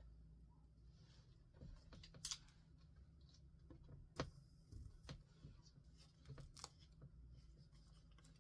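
Faint, scattered taps and small clicks of paper and stationery being handled on a desk, with two sharper clicks about two and four seconds in.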